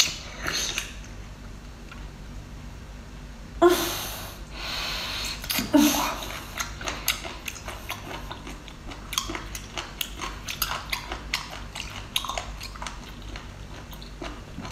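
Wet chewing and biting of braised sea cucumber: many small mouth clicks and smacks, with two louder wet bites about four and six seconds in.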